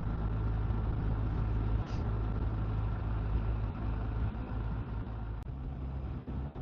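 Motorcycle engine running at a steady cruise with wind and road noise, a low even drone. The engine note changes about five and a half seconds in.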